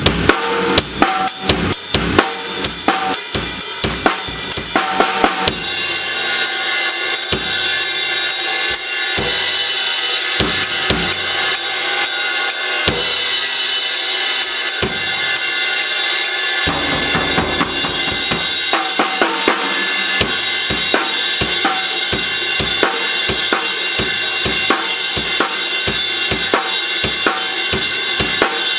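A drum kit playing. Separate kick and snare hits come first; about five seconds in, it settles into a steady, busy beat with cymbals ringing over it.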